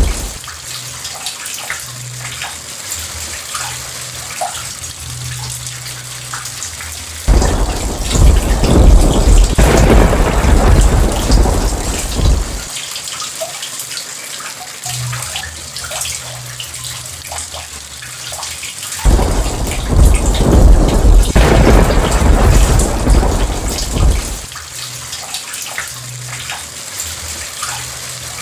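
Steady rain with thunder rumbling twice, each deep rumble lasting about five seconds and starting suddenly, the first about seven seconds in and the second about nineteen seconds in.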